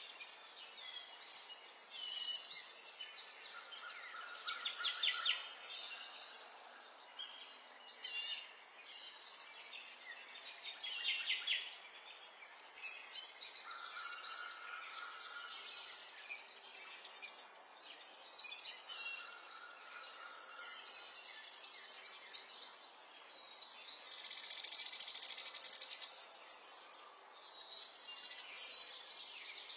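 Several songbirds singing and chirping over one another in a stream of short, high trills and twittering phrases, with a few lower whistled notes, over a faint steady hiss.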